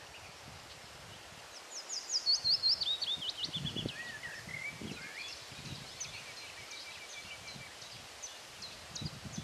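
A songbird singing: about two seconds in, one loud song of rapid notes falling steadily in pitch, ending in a short flourish, followed by fainter chirps. Wind and rustling leaves can be heard underneath.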